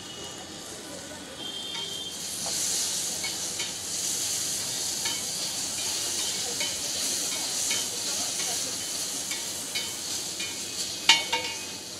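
Chilli chicken with onion and capsicum sizzling in olive oil on a flat griddle while a slotted metal spatula stirs and scrapes it. The sizzle grows louder about two seconds in, and the spatula gives scattered clicks against the griddle, with one sharp loud click near the end.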